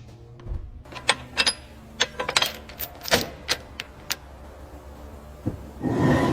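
Hand tools clicking and tapping on metal during the teardown of a bulldozer's engine: about a dozen sharp, irregular clicks, then a louder rush of noise near the end.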